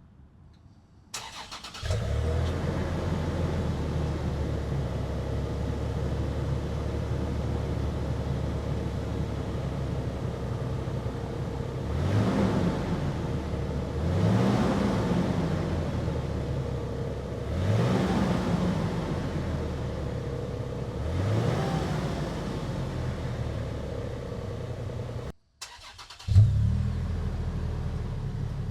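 Toyota 4Runner exhaust: the engine starts about a second in and idles steadily, then is revved briefly four times, each rev rising and falling. Near the end, after a sudden break, the engine starts again with a sharp burst and settles to idle. The two recordings compare the stock muffler with a Borla Pro XS muffler.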